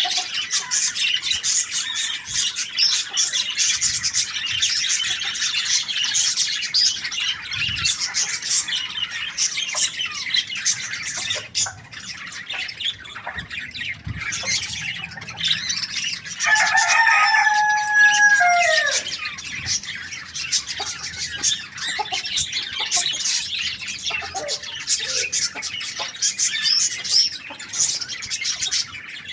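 Many small birds chirping continuously in a dense high chatter. About two-thirds of the way through, a rooster crows once, a single call of about three seconds that drops in pitch at the end and stands out as the loudest sound.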